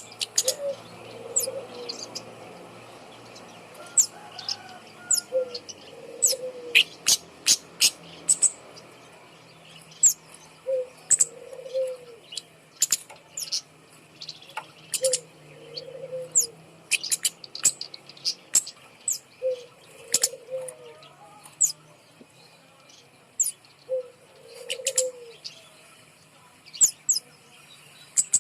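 A flowerpecker giving sharp, very high chipping calls, singly and in quick clusters. A dove coos low about every four to five seconds.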